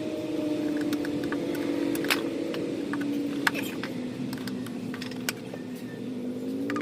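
Scattered sharp metal clicks and clinks of hand tools working on the wiper cowl and linkage, over a steady hum that slowly drops in pitch.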